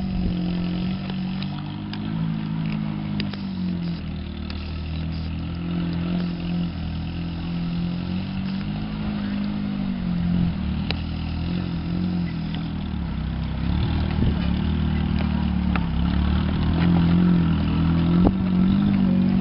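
Small 4x4's engine pulling at low speed, its pitch rising and falling as the throttle is worked, over a steady rough noise.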